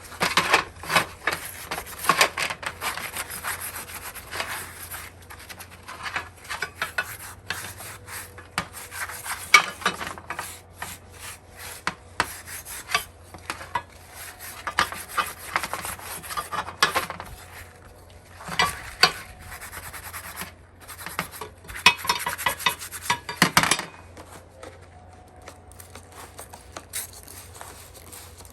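Scrubbing the rusty metal of an antique wood stove with a vinegar-soaked dish sponge, repeated rubbing strokes in bursts with short pauses between, to lift surface rust.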